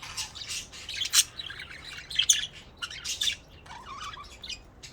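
Budgerigars chirping and chattering: a quick run of short, high chirps.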